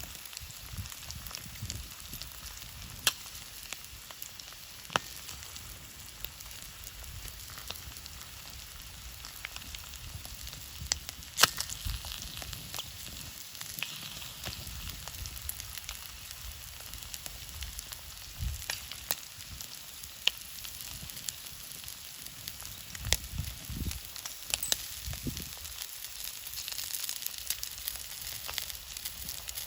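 Thick-cut bacon and eggs sizzling in oil in a pan over a campfire: a steady hiss dotted with sharp pops and spits of fat, the loudest about a third of the way in.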